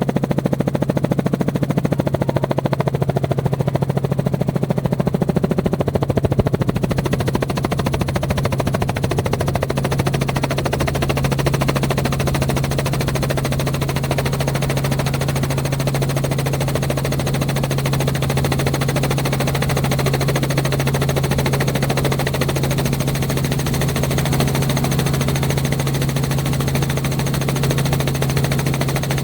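Engine noise running steadily and loudly, with a strong low hum and a rapid, even pulsing beat that does not let up.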